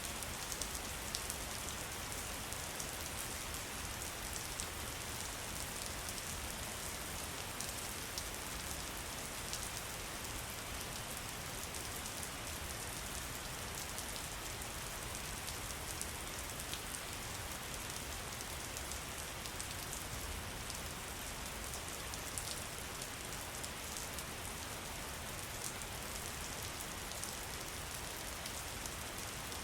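Steady rain: an even hiss with scattered sharp drop ticks, over a low rumble of falling water.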